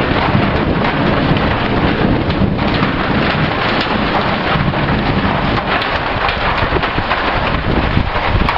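Heavy rain pouring steadily during a thunderstorm, with a low rumble of thunder under it.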